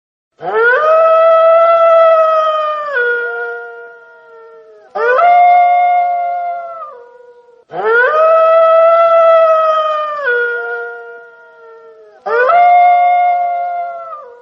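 Wolf howling: four long howls, each rising quickly at the start, holding steady, then dropping to a lower note as it fades.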